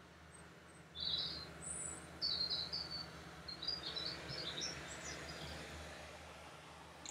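Small birds chirping outdoors: a run of short, high chirps and twitters that starts about a second in and fades after about five seconds, over a steady low hum.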